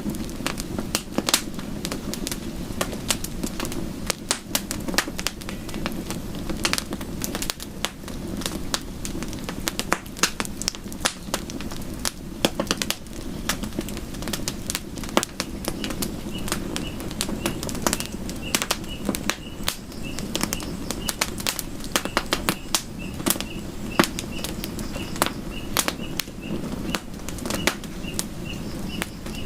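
Campfire of burning wood crackling and popping with many sharp snaps over a steady low rumble of flames. From about halfway through, a faint high chirp repeats about twice a second.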